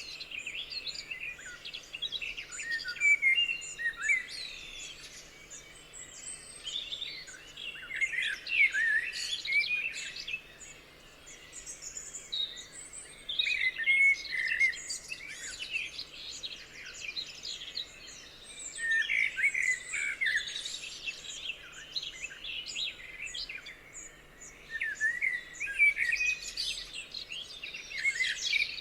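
A chorus of several songbirds chirping and trilling, in bursts of song with short quieter gaps between them.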